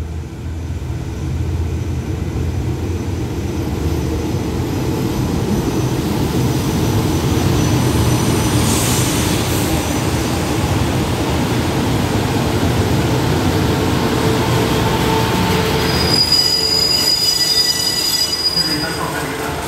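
Passenger train pulling into the platform, its wheels and running gear rumbling steadily. About 16 seconds in the rumble fades and a high, several-toned squeal sounds for a few seconds as the train brakes to a stop.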